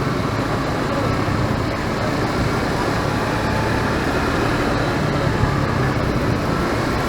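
Motorcycle engine running steadily while riding in traffic, mixed with road and traffic noise.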